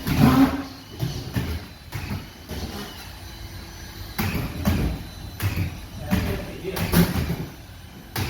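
Irregular knocks and thumps, with indistinct voices in between.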